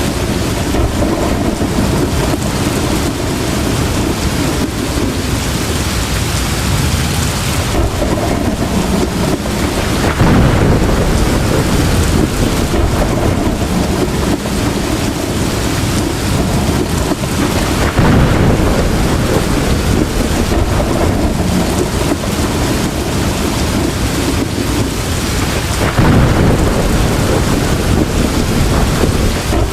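Heavy rain pouring steadily, with rolling thunder. Three louder rumbles swell up about eight seconds apart.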